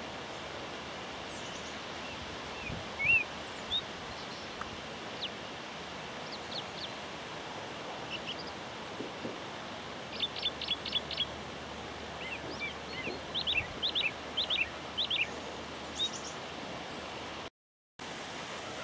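Birds chirping in short, high notes, a few at first, then in quick runs in the second half, over a steady background hiss. The sound cuts out for about half a second near the end.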